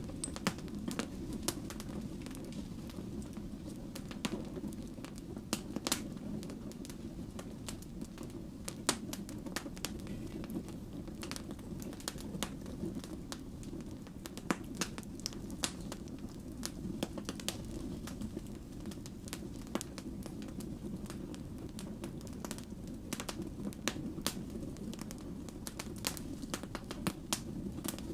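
Wood fire burning steadily, with irregular sharp pops and crackles over a low, even rumble of the flames.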